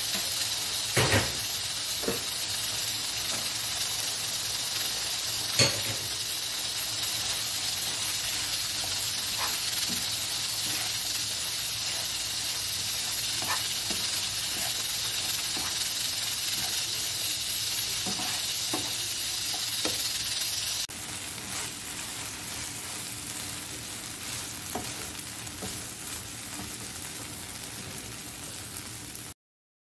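Diced chicken, grated carrot and green pepper sizzling in oil in a nonstick frying pan while a plastic slotted spatula stirs them, with a few sharp clicks of the spatula against the pan. The sizzle drops quieter about two-thirds of the way through and cuts off just before the end.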